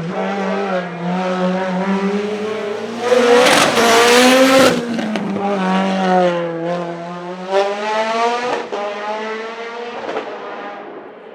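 Mitsubishi Lancer Evolution IX's 2.3-litre 4G63 stroker turbo engine at full throttle on a hill climb. It revs up, then drops in pitch at two gear changes, about five and about nine seconds in. It is loudest as the car passes close, about three to five seconds in, and fades near the end.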